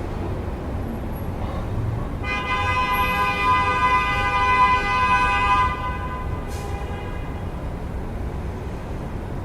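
Steady city traffic rumble, with a vehicle horn sounding one long blast of about three and a half seconds, starting about two seconds in.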